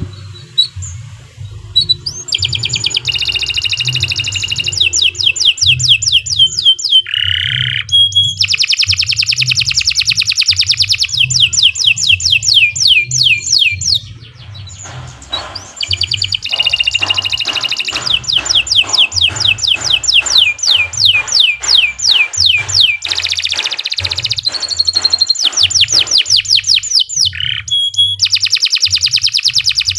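Domestic canary singing long, fast rolling trills of repeated falling notes, several a second, in runs of many seconds broken by a few short pauses. A low hum runs underneath.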